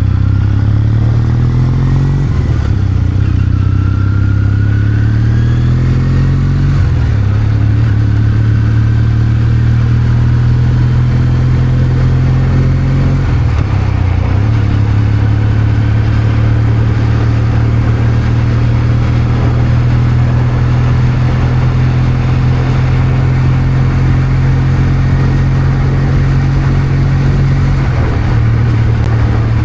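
Kawasaki W800's air-cooled parallel-twin engine running steadily on the move. Its pitch climbs for a few seconds, then drops at a gear change, with brief breaks again around the middle and near the end.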